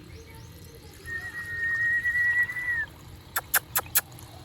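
Pet parrot whistling one long, steady high note with a slight waver, about a second in. Near the end come four quick, sharp clicks.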